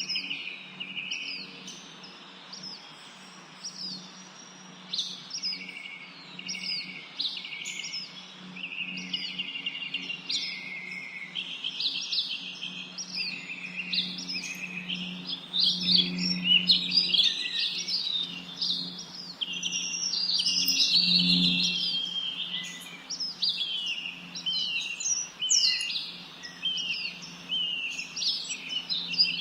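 A chorus of many small songbirds chirping and singing at once, with quick, overlapping, downward-sliding notes that grow busier past the middle. A steady low hum runs underneath.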